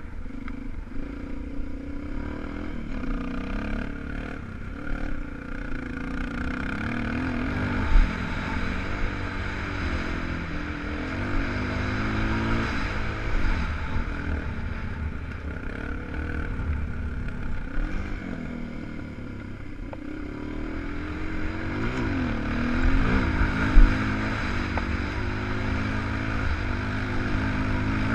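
250 cc single-cylinder enduro motorcycle engine revving up and down as it rides an off-road track. There are two sharp knocks, about eight seconds in and about three quarters of the way through.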